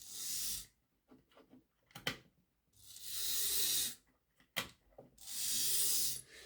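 Small electric motor of a Hornby Class 35 Hymek OO-gauge locomotive chassis running on a test track in three short bursts of about a second each, each spinning up and stopping, with a few sharp clicks in between: a test run after the motor was rebuilt.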